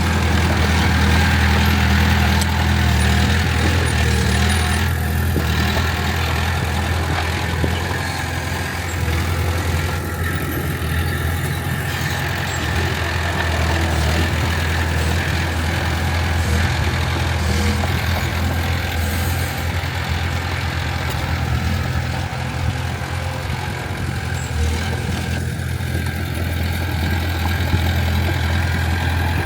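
Diesel engine of heavy earthmoving machinery running steadily, a low even hum without big changes in engine speed.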